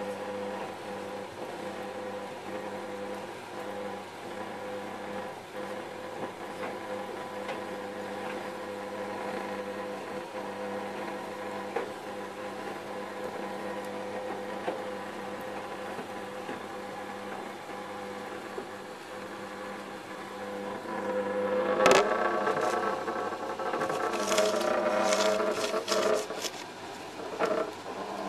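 Creda Advance tumble dryer running with bath mats in the drum: a steady motor and drum hum. Near the end a sharp knock, followed by louder, uneven rattling.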